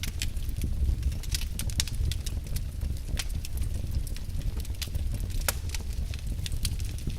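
Wood fire in a fireplace: logs crackling with irregular sharp pops over a steady low rumble of the flames.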